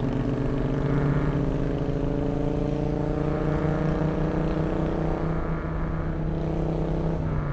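Porsche 987.1 Cayman S's 3.4-litre flat-six pulling under steady acceleration, its pitch climbing slowly and evenly, then the revs drop near the end as the throttle lifts or it shifts.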